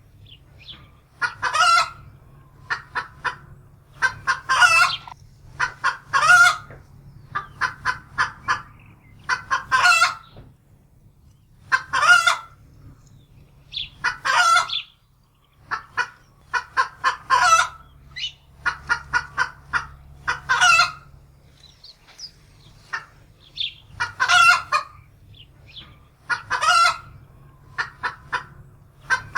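Domestic hen cackling in alarm: runs of quick clucks, each ending in a loud, drawn-out squawk, repeating about every two seconds.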